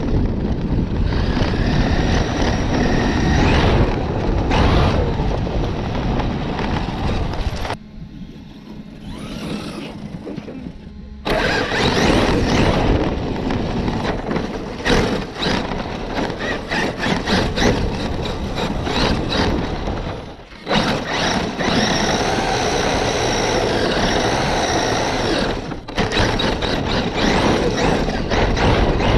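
Radio-controlled car driving hard over rough ground, heard close up: a continuous rush of wind and ground noise with constant rattling from the tyres and chassis. The sound drops abruptly for a few seconds about eight seconds in, then comes back just as loud, and it changes sharply twice more near the end.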